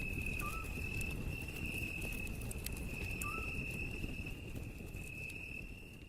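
Cricket trilling in one steady, unbroken high tone over a low outdoor rumble, with two brief faint chirps about half a second and three seconds in; the sound fades out near the end.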